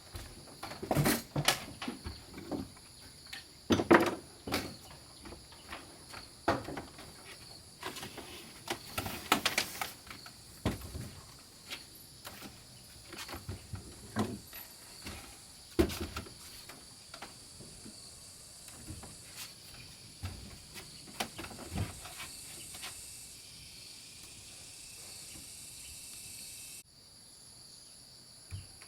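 Irregular knocks and clicks of wood being handled and worked by hand, with a brief scraping stretch, over a steady high drone of insects.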